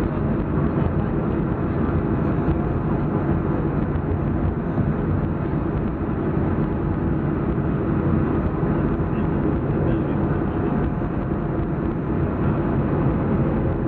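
Steady low rumble of a Boeing 737-400's cabin on the ground after landing, with a faint steady hum through it.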